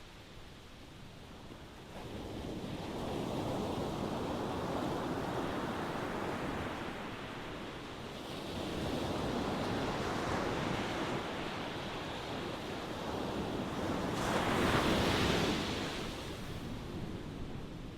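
Ocean waves breaking and washing on a shore, swelling and ebbing in slow surges, with the biggest wave breaking about two-thirds of the way through.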